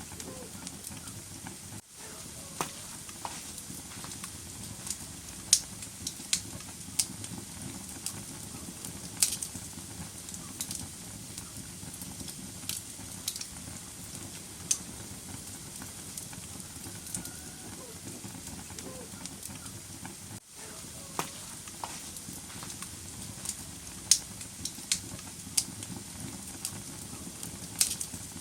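Wood fire burning in a fireplace: a steady hiss and low rumble with irregular sharp crackles and pops from the logs. The sound briefly drops out twice.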